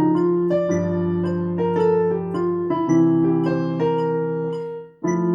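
Piano playing a jazz blues in B flat: chords and melody notes change every half second to a second, with a short break just before the end and then a new chord struck.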